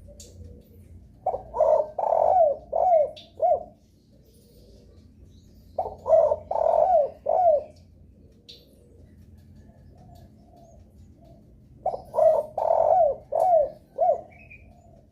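Derkuku (spotted dove) cooing: three phrases of four or five short, falling coos each, with softer cooing between them.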